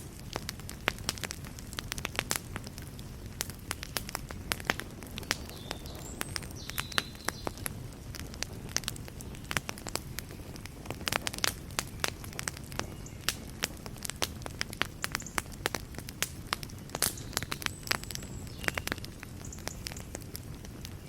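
Wood fire crackling in a fireplace: irregular sharp pops and snaps, several a second at times, over a steady low rush of burning.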